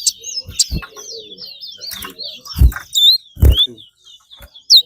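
Racing songbird singing: a fast, continuous run of high chirping, warbling notes. Several loud, short low thumps come in between, the loudest about two and a half and three and a half seconds in.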